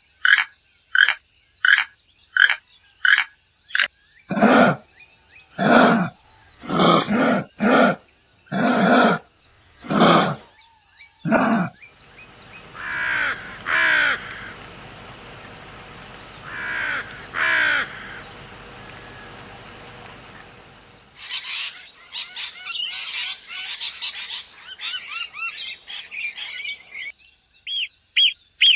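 A run of different animal calls one after another: short calls repeated about twice a second, then louder, deeper calls, then a few calls over a noisy background, and near the end a burst of dense, high bird chirping.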